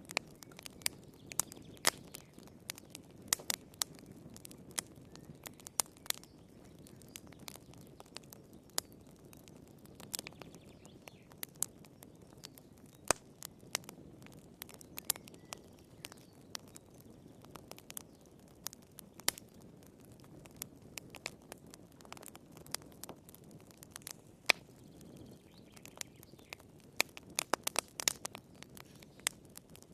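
Wood fire crackling in a fireplace: irregular sharp pops and snaps over a soft low rumble of burning logs, with a quick flurry of pops near the end.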